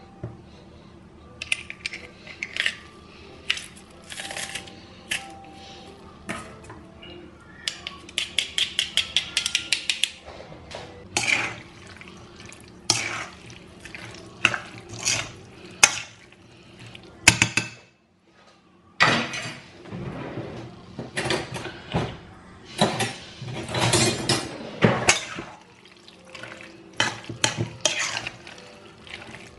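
Dishes, pans and utensils clinking and knocking during kitchen work, in many separate strokes, with a quick run of taps about eight seconds in and a brief break about halfway through.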